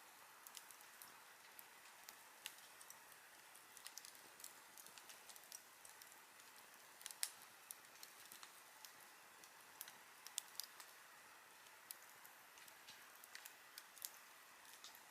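Wood campfire crackling softly: a steady low hiss with irregular sharp pops and snaps, the loudest about seven seconds in.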